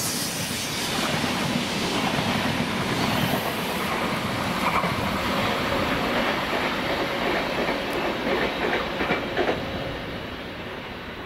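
Renfe train running past on the line, wheels clattering over the rail joints in quick clicks, the sound dying away near the end as it goes.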